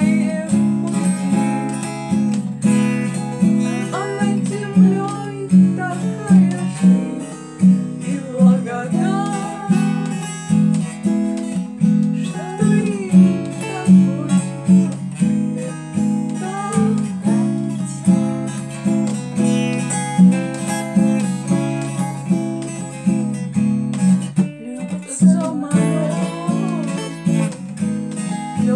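Acoustic guitar strummed in a steady rhythm, with a brief break about 25 seconds in.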